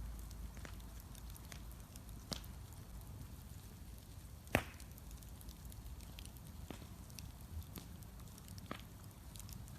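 Wood bonfire crackling, with scattered sharp pops over a low rumble and one loud snap about halfway through.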